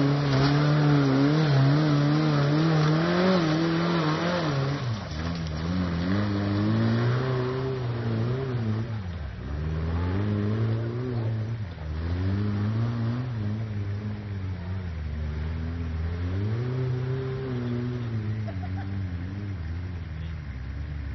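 A small off-road 4x4's engine working under load as it climbs a muddy slope, the revs surging and easing every few seconds. It drops to a lower pitch about four seconds in and gets somewhat fainter as the vehicle moves away.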